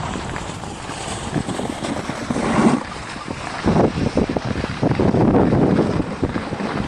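Wind buffeting the microphone of a camera carried by a skier on the move downhill, with uneven louder gusts a few seconds in.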